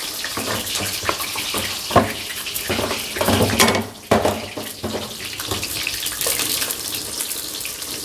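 Chopped shallots and garlic frying in hot cooking oil in a wok: a steady sizzle with many small crackles and pops.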